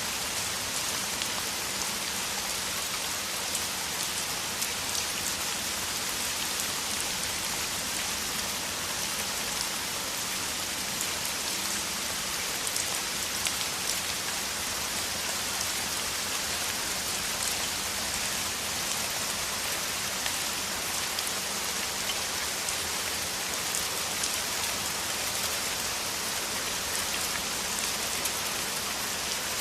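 Steady downpour: an even rain hiss with the patter of countless individual drops.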